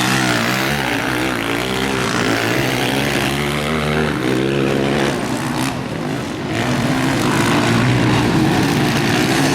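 Motocross motorcycle engines racing on a dirt track, buzzing and revving, with the pitch rising and falling as the riders work the throttle and shift gears. The sound eases briefly about halfway through, then swells again.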